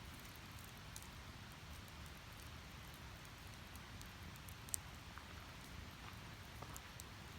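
Wood fire crackling: a steady faint hiss with scattered small pops from the burning firewood, and one sharper pop a little after the middle.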